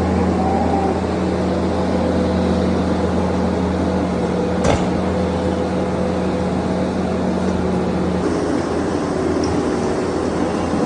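A farm loader's engine running steadily under load while the barn is cleaned out. There is a single sharp knock about halfway through, and the engine note shifts slightly near the end.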